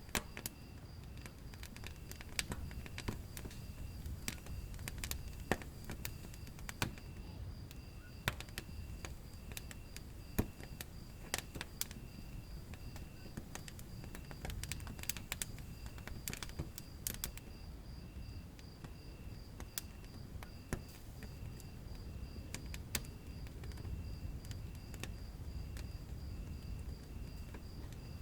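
Wood fire burning in a fireplace: irregular sharp crackles and pops over a low, steady rumble of the flames. A faint high chirp pulses steadily behind it.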